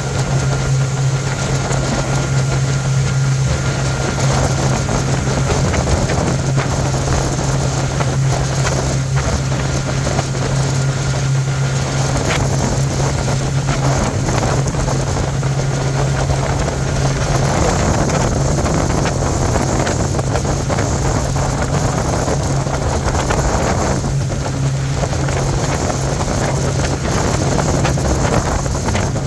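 Bayliner motorboat's engine running steadily underway, a constant low drone, with wind buffeting the microphone.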